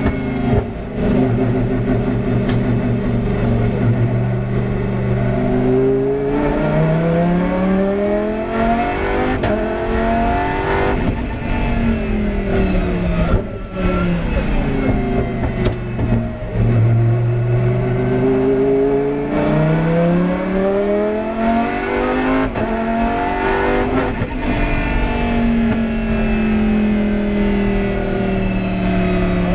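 Lamborghini Huracán GT race car's 5.2-litre V10 engine at racing speed, its pitch repeatedly climbing under acceleration and dropping as it slows for corners.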